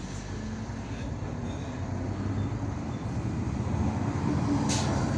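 IVECO Urbanway 18M articulated city bus heard from inside the cabin while under way: a steady low engine hum and road noise, growing gradually louder, with one short click near the end.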